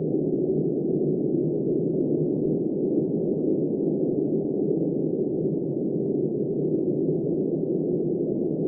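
Steady, deep, muffled wind of a snowstorm, an even unbroken rush with no high sounds in it.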